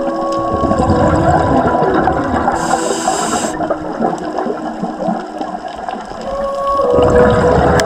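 Underwater sound of a scuba diver breathing through a regulator: a hiss of inhaled air lasting about a second, a third of the way in, and the bubbling rush of exhaled air, swelling near the end. Steady humming tones sound faintly behind it.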